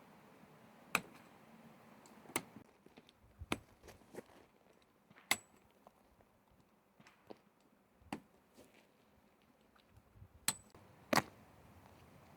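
Irregular sharp clicks and knocks of objects being handled, about seven over the span, two of them with a brief high metallic ring.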